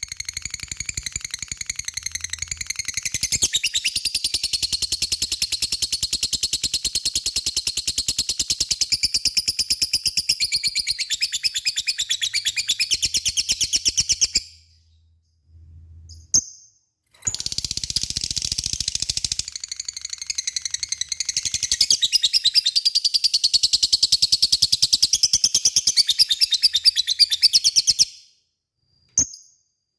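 Lovebird ngekek: a long, very rapid, unbroken chattering trill of high-pitched notes. It comes in two long bouts of about fourteen and ten seconds, split by a short pause with a couple of single chirps, and ends with a few lone chirps.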